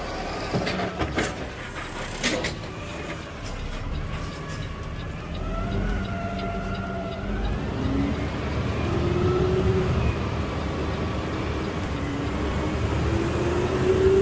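Garbage truck running and pulling away, its engine tone climbing in pitch in steps as it speeds up, over a steady low rumble. A few sharp knocks and rattles in the first couple of seconds.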